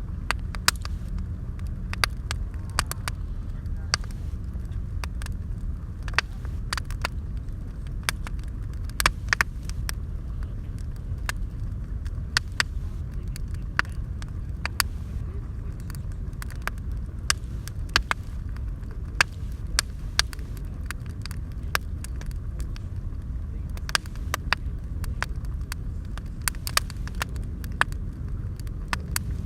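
Bonfire crackling and popping with many sharp, irregular snaps, over a steady low rumble.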